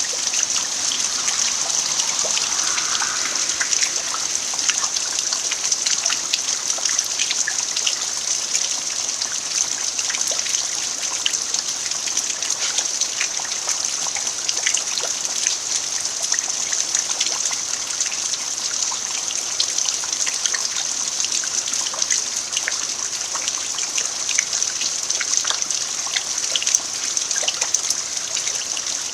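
Steady rain falling on an earthen yard, a continuous hiss sprinkled with many small sharp drop ticks.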